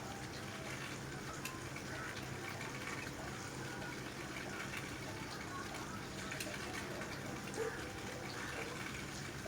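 Steady monsoon rain with water running and pouring.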